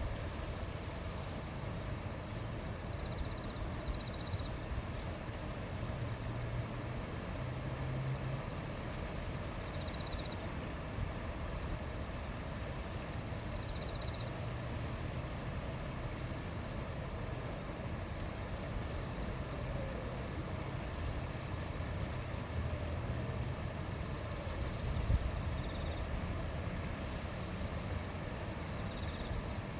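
Steady rushing of a river stream, with a deep low rumble underneath and a few short, faint high peeps now and then.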